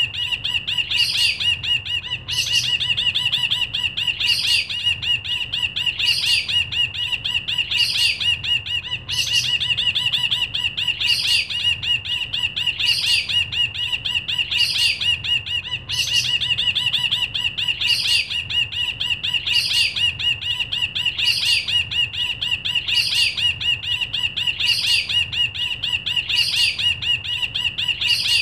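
A brinji kelabu, a bulbul, singing without pause: a fast, unbroken trill with a short, sharp high note about once a second, repeating evenly.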